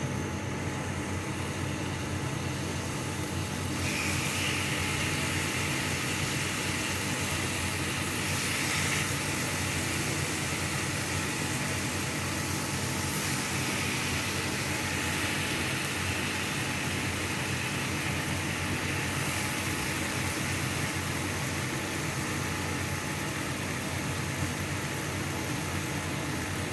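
Marinated chicken pieces sizzling in butter in a hot pan: a steady hiss that grows louder about four seconds in. Under it runs a constant low hum.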